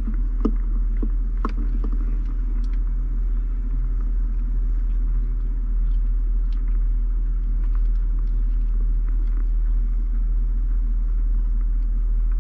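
Steady low rumble of a car's cabin noise, with a few light clicks in the first two seconds.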